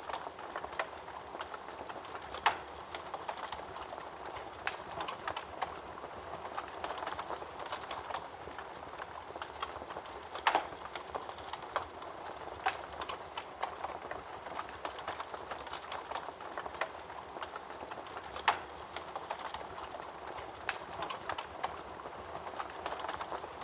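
Fire crackling: a steady hiss of small crackles, with three sharper, louder pops spaced several seconds apart.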